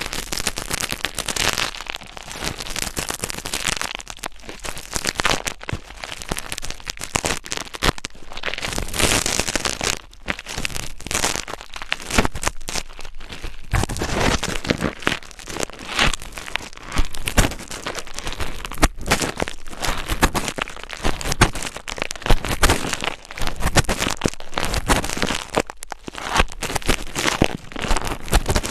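Dense, irregular crackling and scratching right at the microphone, a steady stream of small clicks with no pauses: close-miked ASMR scratching sounds.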